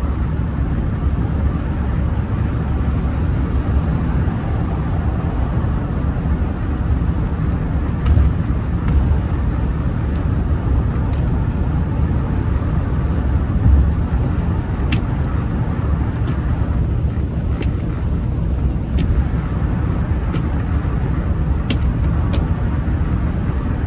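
Interior of a Rolls-Royce Silver Spirit III on the move: steady low road and engine rumble in the cabin. A few faint clicks are scattered through it.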